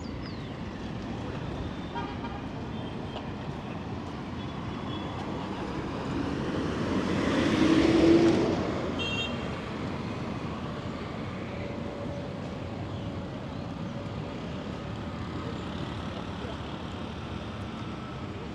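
Steady street traffic. A motor vehicle passes close, rising to its loudest about eight seconds in and then fading, followed by a brief high-pitched toot.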